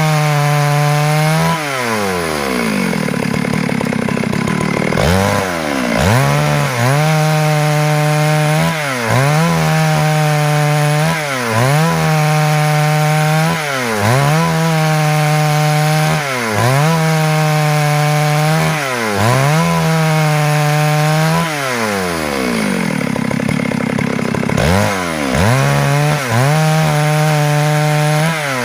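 Stihl MS 382 two-stroke chainsaw running hard through wood, its pitch dipping and recovering about every two seconds. Twice the high engine note drops away for a few seconds before coming back.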